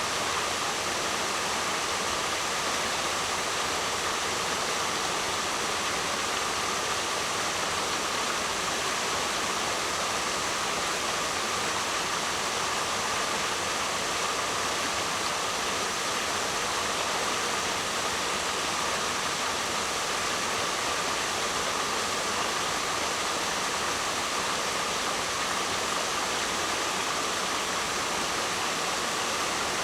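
Waterfall: water pouring in a steady, even hiss with no swells or breaks.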